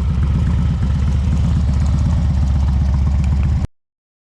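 Motorcycle engine running steadily with a low, rapid pulsing beat, cutting off suddenly near the end.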